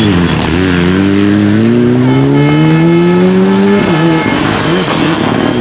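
Rally car engine accelerating hard: its pitch dips briefly, climbs steadily for about three seconds, then drops sharply at an upshift, with a high whine over the rising engine note.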